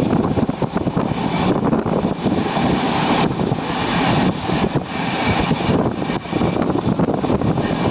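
Passenger train running, heard from on board: a steady rumble of wheels on the rails with wind rushing past.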